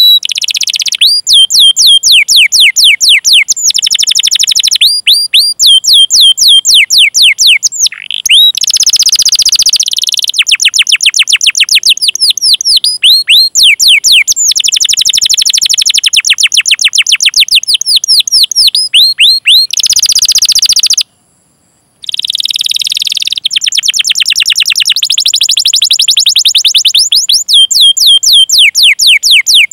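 Canary singing long rolls of rapid repeated chirps, about eight notes a second, in runs with short pauses between them. The song cuts out for about a second roughly two-thirds of the way through.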